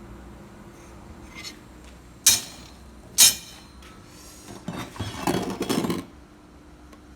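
Metal pieces clanking: two sharp ringing clanks about a second apart, then a second or so of rattling clatter.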